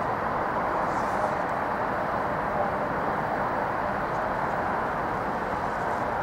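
Steady rumble of a Norfolk Southern train rolling toward the bridge.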